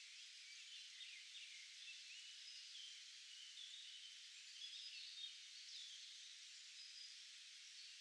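Faint bird calls: scattered short, high whistles and chirps over a quiet background hiss.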